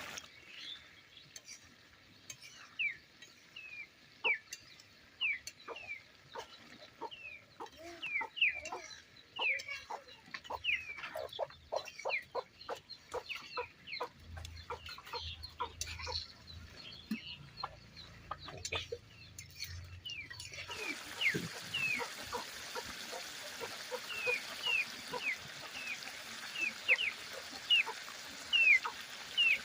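Chickens clucking and calling, many short high calls with a run of quick clucks near the middle; the background noise jumps up abruptly about two-thirds of the way in.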